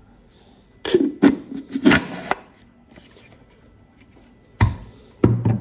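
Hard 3D-printed plastic pieces being handled: a quick run of clacks and rubbing about a second in, then two more knocks near the end.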